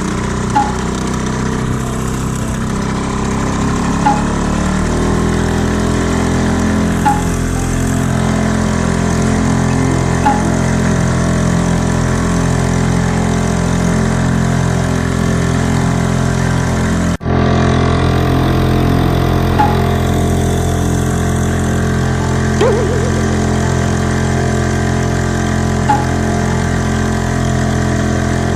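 Honda 2 hp single-cylinder four-stroke outboard motor running at a steady speed. The sound cuts out for an instant about halfway through.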